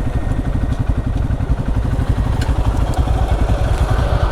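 Hero Xpulse 200 4V's single-cylinder engine idling steadily through an MW Performance stainless-steel full-system exhaust, with a rapid, even low thudding beat.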